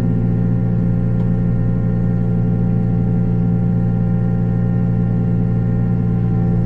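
Takeuchi TB285 mini excavator running with its hydraulically driven Blue Diamond rotary cutter spinning: a steady, loud droning hum with ringing tones over it and no change in load.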